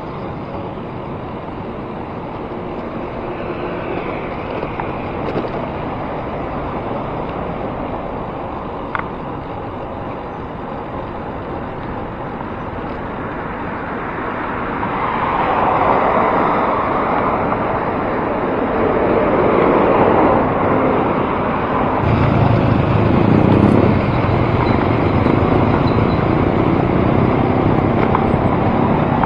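Road traffic noise: motor vehicles running past on the road, a steady rush that grows louder about halfway through and takes on a heavier low rumble later on.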